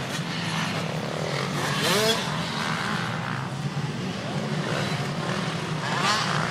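Motocross motorcycle engines running around the track: a steady drone with rev changes, one engine rising in pitch about two seconds in and again near the end.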